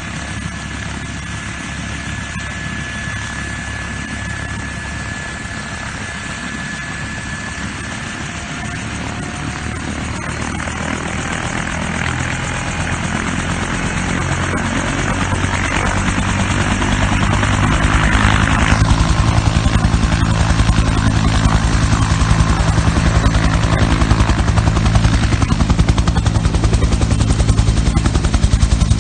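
Bell 210 (UH-1) helicopter's turbine and two-blade main rotor running, the rotor beat growing steadily louder and stronger through the clip.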